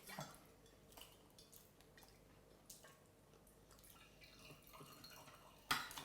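Near silence: quiet room tone with a few faint small clicks and taps, and one short louder sound near the end.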